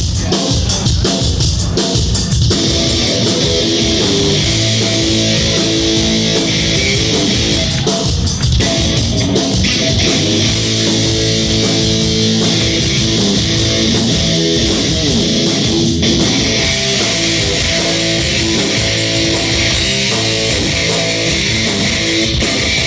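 Crossover thrash band playing live: loud distorted electric guitars, bass guitar and fast drums.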